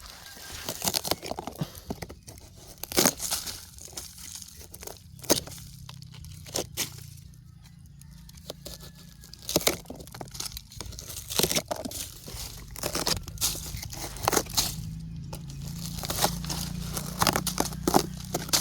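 Dry wood and debris crackling, snapping and rustling as it is moved and pulled apart, in many irregular sharp cracks.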